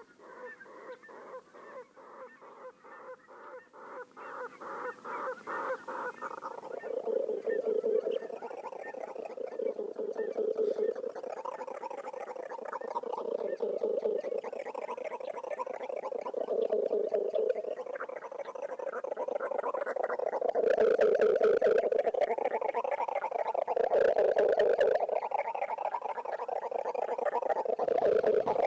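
Male pectoral sandpiper displaying to a female at very close range, played through loudspeakers: a run of rapid pulsed notes that grows louder over the first six seconds, then deep, swelling hoots repeated every couple of seconds. These are very strange sounds for a sandpiper.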